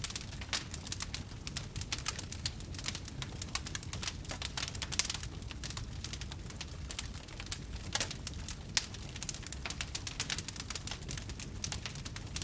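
Wood campfire burning: dense, irregular crackles and pops over a steady low rush, with a few sharper pops, one about five seconds in and another about eight seconds in.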